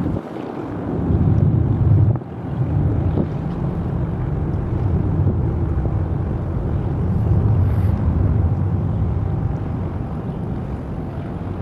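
Wind buffeting the microphone: a gusty low rumble that swells and eases over a few seconds.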